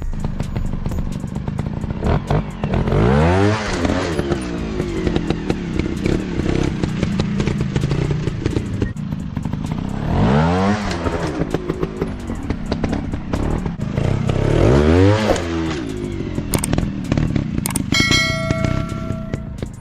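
Trail dirt bike engines revving up and dropping back three times, over constant clattering and crackling.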